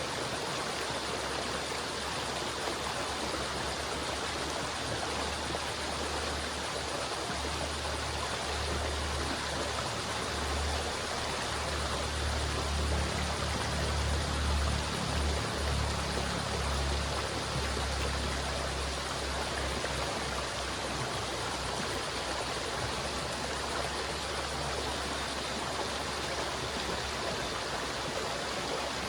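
River water flowing steadily, a continuous rushing and splashing. A low rumble swells beneath it in the middle.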